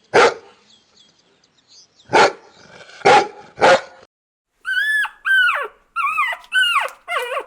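Dog barking four times, then a quick run of short, high whines or yelps, each falling in pitch.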